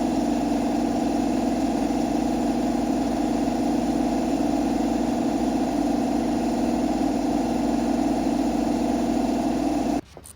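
A loud, steady machine drone that starts abruptly and cuts off suddenly about ten seconds in.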